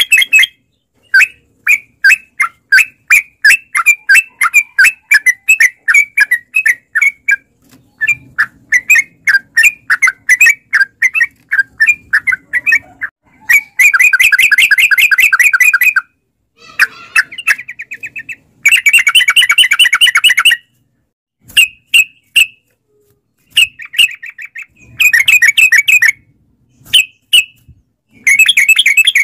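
Yellow-vented bulbul (trucukan) singing: a run of quick bright chirps, about three a second, then repeated bursts of fast chattering trill, each a second or two long, with short gaps between.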